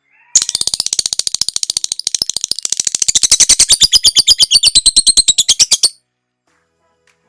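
Lovebird giving its 'ngekek' call: a rapid, even chatter of sharp high notes, about ten a second. It starts about half a second in, grows louder midway and cuts off abruptly about six seconds in.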